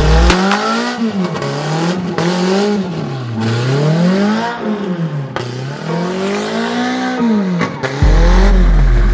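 Toyota DX's 4A-GE 20-valve four-cylinder engine revving hard, its pitch rising and falling several times as the throttle is worked. A heavy deep bass drops out just after the start and comes back near the end.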